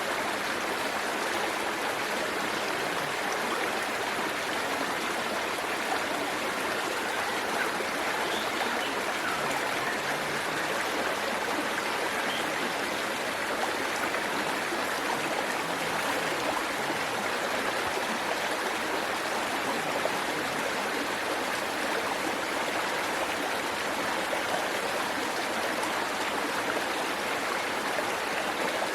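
Waterfall and stream water running, a steady even rush with splashing and trickling.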